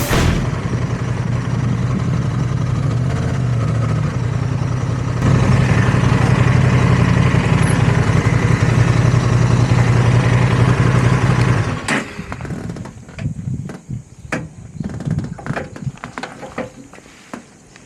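Honda Transalp XL750's parallel-twin engine running steadily, getting louder about five seconds in, then cut off suddenly about twelve seconds in. After it stops come scattered light clicks and knocks.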